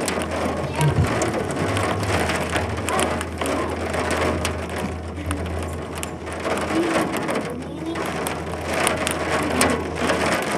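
Heavy rain, with hail in it, drumming on a hard surface: a dense patter full of many sharp individual hits, over a steady low hum.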